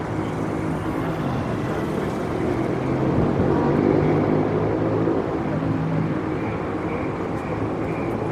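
City street traffic, with a vehicle engine running close by that swells about three to five seconds in.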